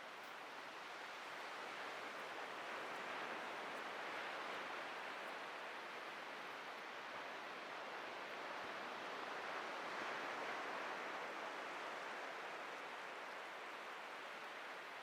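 Atlantic surf breaking and washing onto a beach: a steady hiss of waves that swells gently about three seconds in and again about ten seconds in.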